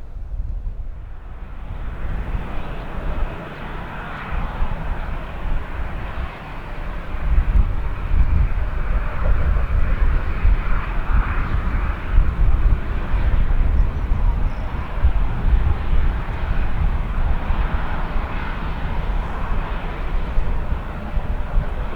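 Boeing 737-800's jet engines running at low power, a steady rushing whine that comes in about two seconds in. Heavy wind rumble buffets the microphone underneath.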